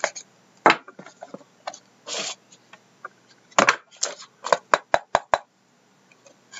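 A sealed trading-card box being handled and opened: a string of sharp clicks and knocks from the box and its packaging, with a short scraping rasp about two seconds in and a quick run of clicks later on.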